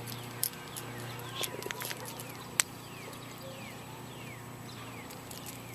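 Scattered small clicks and ticks from handling a bass and a treble-hooked topwater popper while working the hooks out of its mouth, with one sharper click about two and a half seconds in. A series of short, falling, bird-like chirps sounds in the background.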